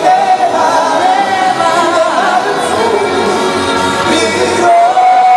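A song performed with a singing voice over a full backing track. The voice holds long notes with vibrato, and a new long held note begins near the end.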